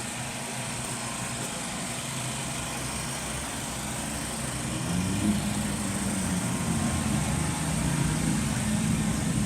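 Motorcycle engines running nearby. About five seconds in, a louder engine comes close and keeps running, its pitch rising and falling slightly.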